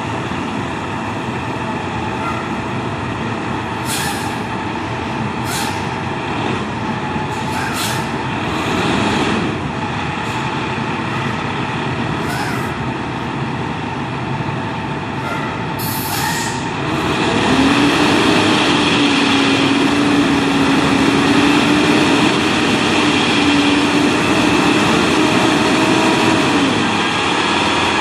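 Fire engine and ladder truck pulling out on a run: heavy diesel engines running, with several short bursts of air hiss. A little past halfway it grows louder and a low, held tone sounds for about ten seconds.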